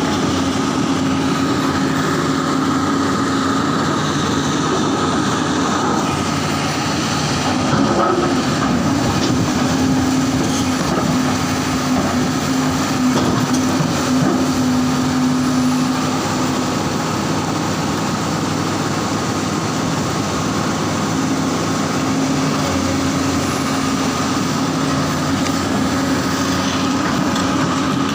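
Diesel engine of a large hydraulic excavator running steadily, a constant hum with a higher whine over it.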